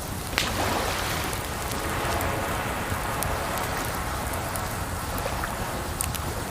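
Crackling campfire with scattered sharp pops over a steady rush of running water. One louder pop comes about half a second in, followed by a short hiss.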